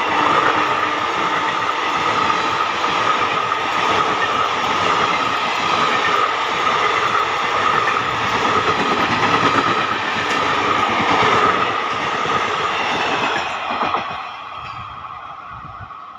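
Indian Railways express passenger coaches passing at speed close by: a loud, steady rush and clatter of wheels on rail. It drops suddenly to a much quieter scene about fourteen seconds in.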